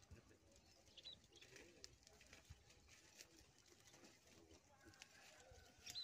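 Near-quiet outdoor ambience with faint, scattered bird calls, including a couple of short high chirps about a second in and at the end.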